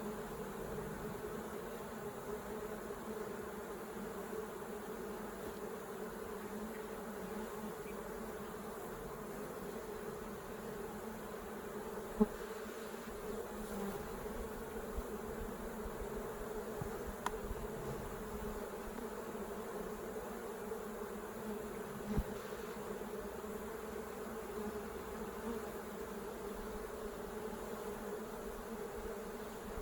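Steady hum of a honeybee colony buzzing around an opened hive. A few faint clicks near the middle come from frames or hive tools being handled.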